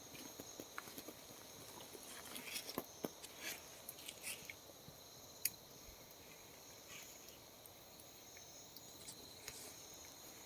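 Faint forest ambience: insects droning in two steady high-pitched tones, with scattered light clicks and rustles.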